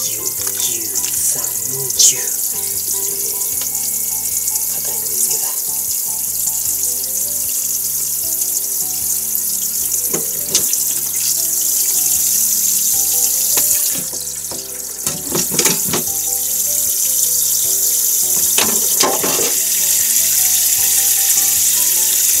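Raw chicken pieces kneaded by hand in a karaage marinade in a stainless steel bowl: wet squelching, in a few clusters, over a steady hiss. Soft background music plays underneath.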